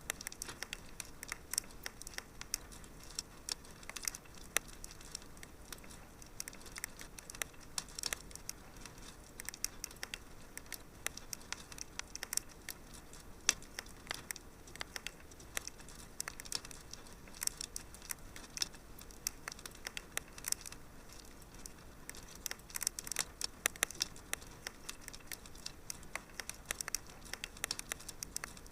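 Wood fire crackling in a fireplace: a steady low hiss with dense, irregular sharp pops and snaps, a few louder than the rest.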